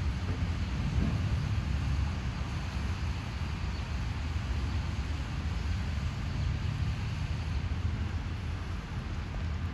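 Diesel freight locomotive engine running with a steady low rumble.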